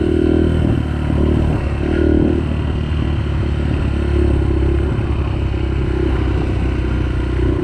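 Yamaha 125 dirt bike engine running steadily under way on a trail, its pitch rising and falling slightly with the throttle, with some clatter from the bike over rough ground.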